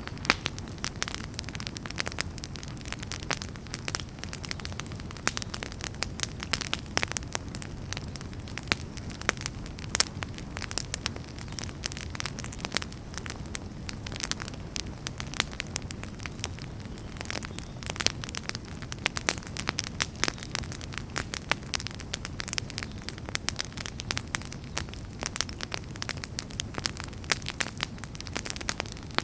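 Campfire crackling: burning firewood popping and snapping in a constant irregular stream of sharp cracks over a steady low rumble of the flames.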